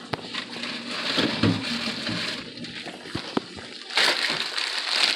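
Tap water running with a few light knocks of cookware, then crackly plastic packaging being handled from about four seconds in.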